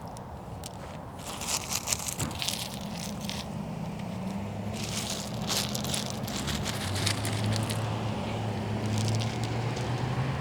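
Gravel being scooped and spread by hand, crunching and rattling in repeated short bursts. A low steady hum comes in about three seconds in and grows louder toward the end.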